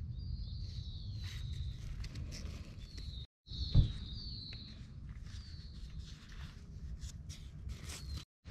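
A bird sings several short, high warbling phrases over a steady low rumble. Light clicks of a plastic clip and cord being handled come and go, and a single loud thump falls a little under four seconds in.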